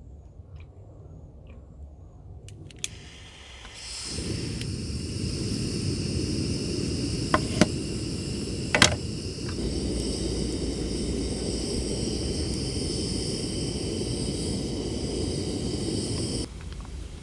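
A steady rushing noise that starts abruptly about four seconds in and cuts off abruptly near the end, with a few sharp clicks near the middle.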